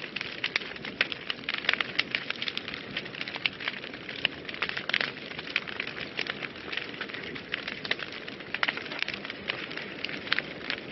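Wood fire burning in a fireplace, with dense, irregular crackles and pops over a steady hiss.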